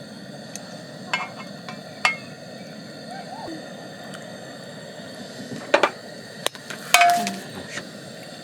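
Tableware and utensils clinking several times during a meal, over a steady hiss. The loudest clink, near the end, rings briefly.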